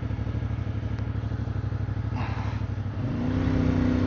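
Motorcycle engine running under way at a steady pace, its note rising about three seconds in.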